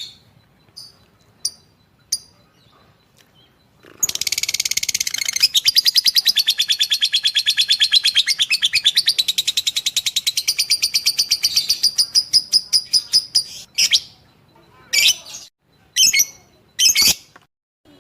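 Lovebird singing: a few soft chirps, then a long, fast, even trill of about eight notes a second lasting nearly ten seconds, the long 'gacor' chattering song prized in fighter lovebirds, ending in several separate sharp calls.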